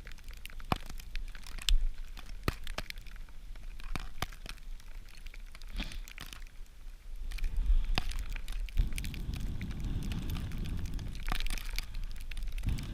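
Irregular sharp cracks and snaps of dry wood as maple sticks are handled and added to a small, struggling campfire. From about nine seconds in, a low wind rumble on the microphone joins them.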